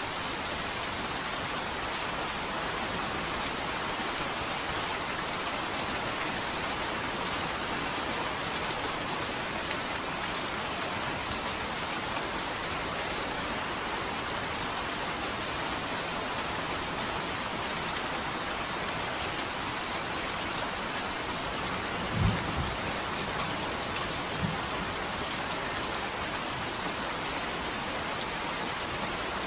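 Steady rain falling, with scattered drop ticks. About two-thirds of the way through comes a brief low rumble of thunder, followed by a smaller one.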